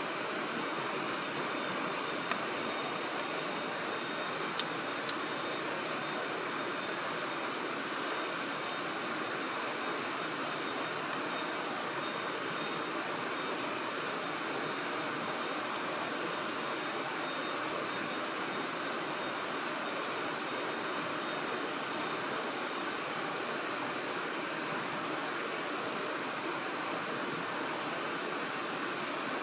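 Firewood burning in a fire grill, crackling with scattered sharp pops, the loudest about two-thirds of the way through, over a steady rushing hiss.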